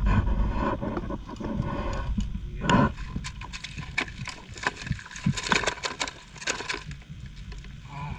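Giant freshwater prawns being handled into a box: irregular clicking and knocking of hard shells and claws against the box, with one louder knock about three seconds in.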